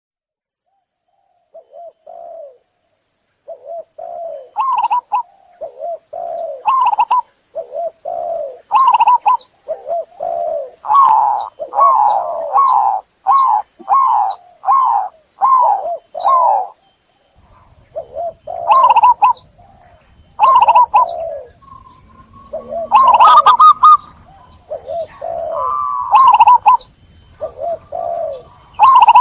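Zebra dove (perkutut) cooing: a long run of short, rolling coo notes in quick succession, starting about one and a half seconds in.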